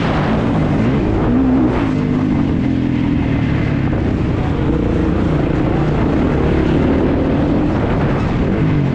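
Kawasaki KX450 motocross bike's four-stroke single-cylinder engine revving up and down repeatedly while racing, with wind noise on the microphone.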